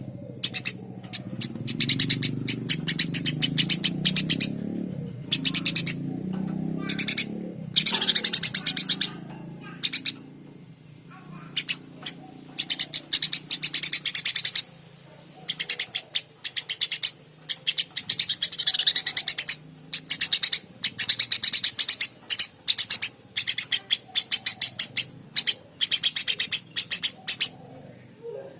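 Eurasian tree sparrow chirping vigorously in rapid bursts of quick, high chirps, with short pauses between the runs. A low background rumble underlies the first ten seconds or so.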